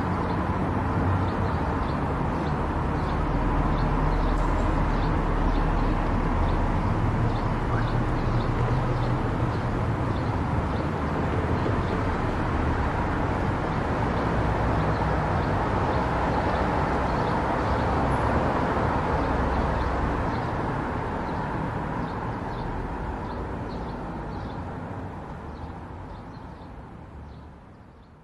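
Car driving at highway speed: steady road, tyre and engine noise with a low rumble, fading away over the last several seconds.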